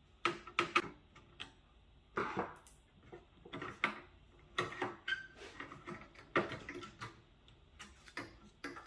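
Irregular clicks and knocks of desktop PC case parts being handled while an LED light is unclipped and removed, about a dozen sharp taps spread unevenly.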